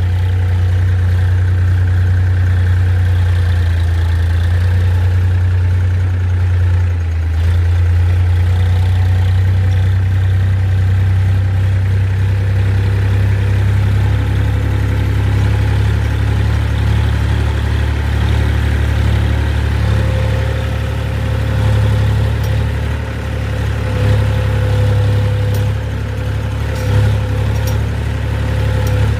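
A motor engine running steadily, with a deep, even hum and small swells in level.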